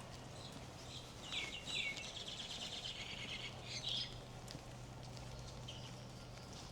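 A bird chirping: a quick run of high notes, starting with a few falling sweeps about a second in and ending about four seconds in.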